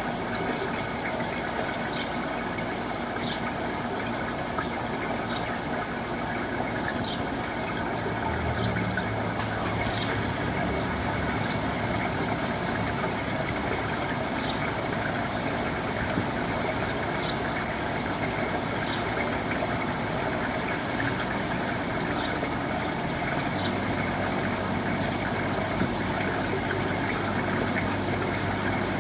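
Sewer jetter's engine and high-pressure pump running steadily, the low note of the engine stepping up about 8 seconds in and again near 24 seconds as the load changes.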